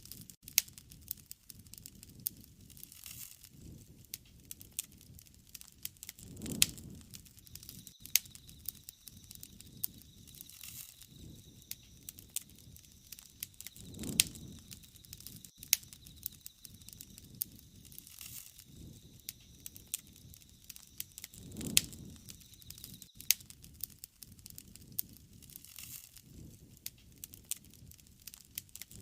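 Wood fire crackling, with frequent sharp pops and a soft low rush of flame swelling about every seven or eight seconds. A faint steady high whine runs through the middle stretch.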